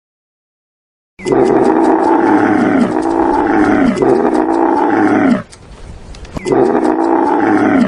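A camel calling: loud, drawn-out calls that each fall in pitch, starting about a second in, with a pause about two-thirds through before a last call.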